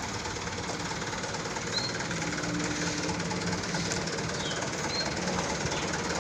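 Diesel truck engine idling steadily, with a few short high chirps over it.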